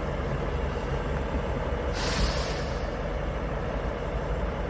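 Heavy truck's diesel engine running steadily, with a short hiss of released air about two seconds in.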